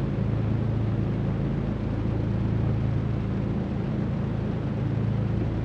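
Cessna 310Q's twin piston engines running steadily at low power during taxi, an even drone heard from inside the cockpit.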